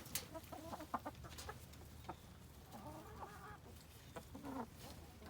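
Domestic hens clucking softly, a few short murmured calls, with scattered light clicks in between.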